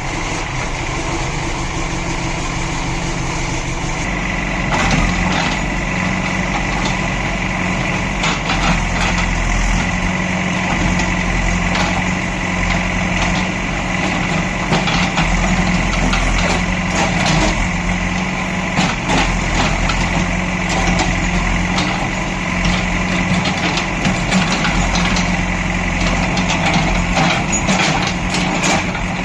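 JCB 5DX Plus backhoe loader's diesel engine running steadily, getting louder about four seconds in, with scattered knocks and clatter.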